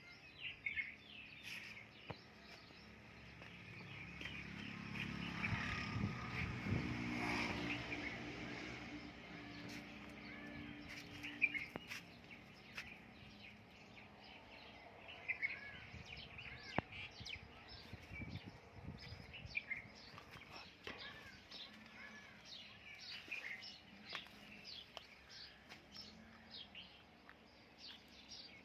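Small birds chirping repeatedly in the background. About four seconds in, an engine grows louder, peaks, and fades away again by about nine seconds, as a vehicle passing by.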